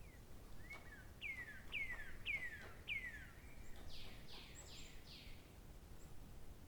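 A songbird singing: four clear whistled notes, each sliding downward, about half a second apart, followed by four higher, fuller notes that also sweep down, over a faint background hiss.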